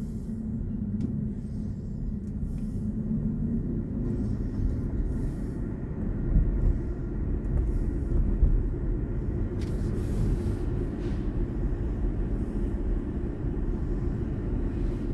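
Steady low road and tyre rumble of a BMW i4 M50, an electric car, driving along.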